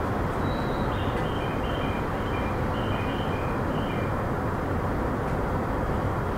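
JR East E231-3000 series electric train running steadily: a continuous rumble of wheels on rail heard from on board. In the first four seconds a run of short high beeping tones at two or three pitches sounds over it.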